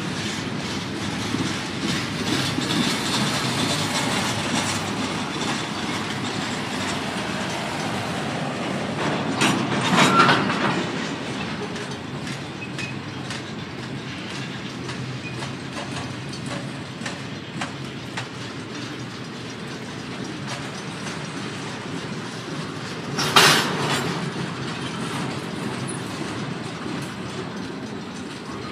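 Double-stack container well cars of a freight train rolling past, wheels rumbling and clicking over the rails, fading slowly. There is a sharp louder bang about ten seconds in and another about twenty-three seconds in.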